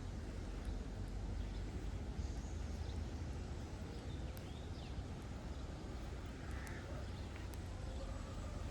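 Faint birds chirping now and then over a steady low outdoor rumble.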